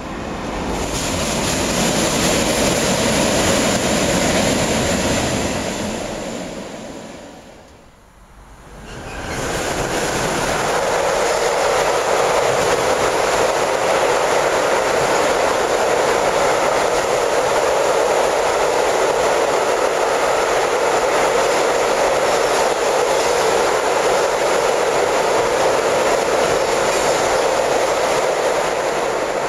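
Freight train rolling across a steel truss railway bridge: a loud, steady rumble of wagon wheels on the rails. An earlier passing train fades out about eight seconds in, before the freight train's noise takes over.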